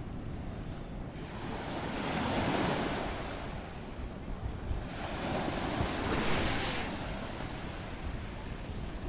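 Sea waves breaking and washing in, two surges of surf a few seconds apart over a steady low rumble, with wind buffeting the microphone.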